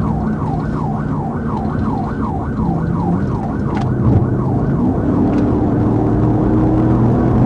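Police siren in a fast yelp, sweeping up and down about three times a second, fading out about four seconds in. Underneath is the steady drone of a patrol car's engine and tyres at speed.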